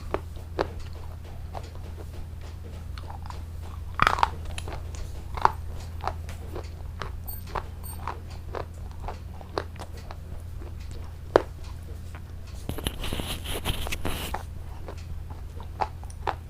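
Close-miked biting and chewing of crunchy food: sharp, scattered crunches, a louder bite about four seconds in, and a dense run of crunching from about twelve to fourteen seconds, over a steady low hum.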